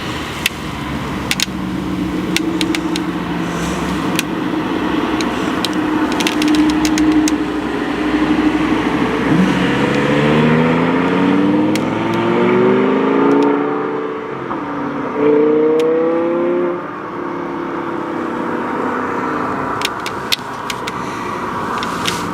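A performance car's engine running on a sprint course, then accelerating hard: the pitch climbs, drops at a gear change, climbs again and falls away as the car passes. Sharp ticks and clicks are scattered over it.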